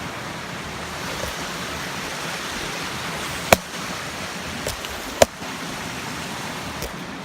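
Steady rush of water from a small canyon waterfall, with two sharp clicks or knocks in the middle.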